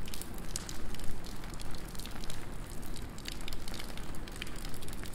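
Rain falling steadily, with many sharp, close drops pattering and ticking over a low, even rumble.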